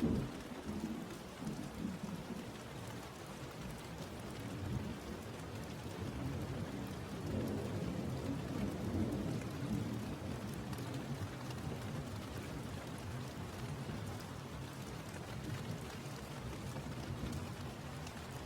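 Steady rain with a long roll of thunder. The thunder starts suddenly, rumbles on and is loudest about halfway through, then fades back into the rain.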